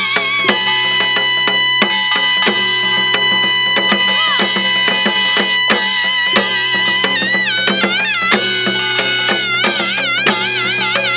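Korean traditional instrumental music in gutgeori rhythm, accompanying the gyobang gutgeori dance. A held melody line bends in pitch and, in the last few seconds, wavers with a wide vibrato over regular drum strokes.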